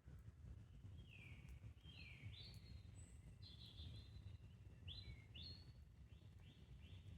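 Faint birdsong in woodland: a run of short chirps that slide down in pitch, over a low steady rumble. A few faint crackles come from a burning wood campfire.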